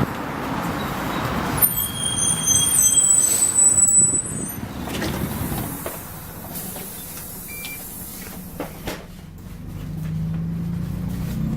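Optare Solo single-deck bus squeaking, a high squeal of several steady tones lasting about three seconds, with a short hiss of air partway through. Then the bus goes quieter, and the low engine note rises again near the end.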